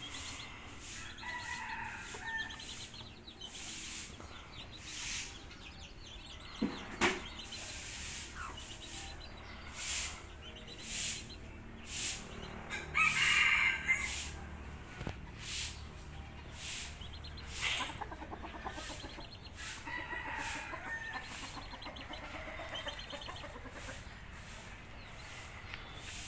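Domestic chickens: a rooster crowing several times, the loudest crow about halfway through, with hens clucking in between.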